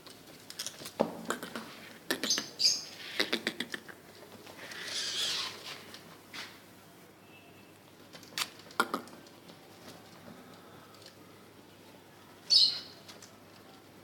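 Birds moving about: scattered sharp taps and wing flutters, a rustle about five seconds in, and a few short high chirps, the loudest near the end.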